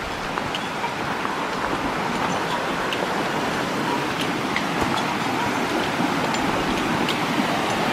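Steady rush of a river's running water, with faint scattered ticks of splashing.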